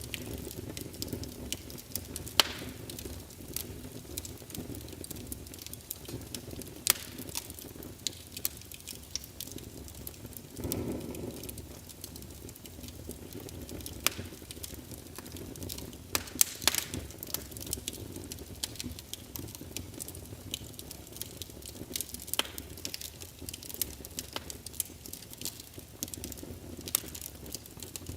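Wood fire in a fireplace crackling, with frequent irregular sharp pops over a steady low rumble of flames. There is a brief louder swell about eleven seconds in.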